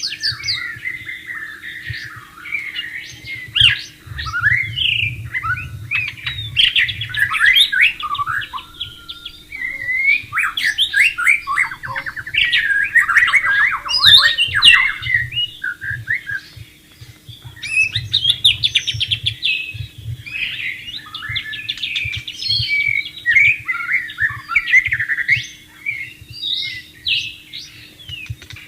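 White-rumped shama singing a long, varied song of rapid whistles, slides and fast trills, with only brief pauses. A steady faint hum lies underneath.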